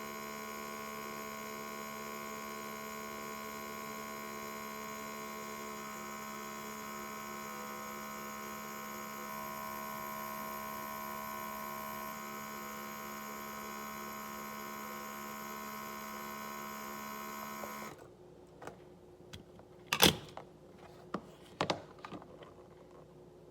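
A steady electric hum made of many constant tones cuts off sharply about 18 seconds in. A few sharp clicks and knocks follow, the loudest about two seconds later.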